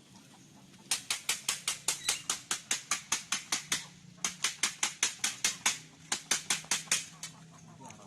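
A rapid, even series of sharp clicks, about seven a second, in two runs of about three seconds each with a short break between, over a faint low hum.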